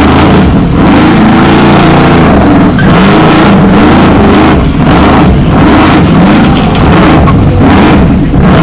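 Car engine revved hard and held at high revs, its pitch rising and falling over and over with short drops between pulls; very loud throughout.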